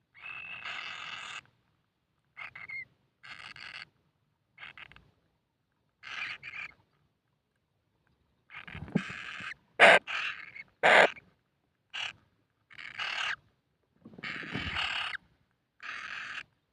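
Kingfisher chicks calling: a series of short raspy calls with silent gaps between them, two louder, sharper ones about ten and eleven seconds in.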